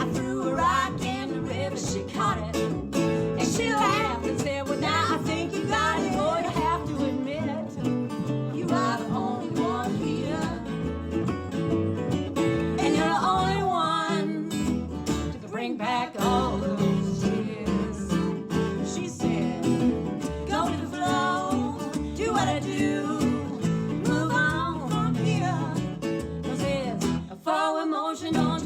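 Live acoustic folk-country instrumental break: strummed acoustic guitar under a bending, wavering harmonica lead.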